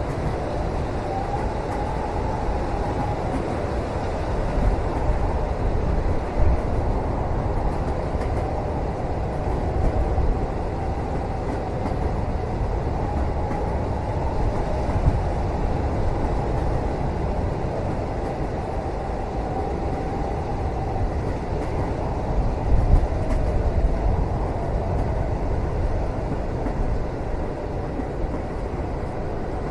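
Train running steadily, heard from inside a passenger cabin: a low rumble with a couple of small jolts, and a faint wavering whine through the first two-thirds that then fades out.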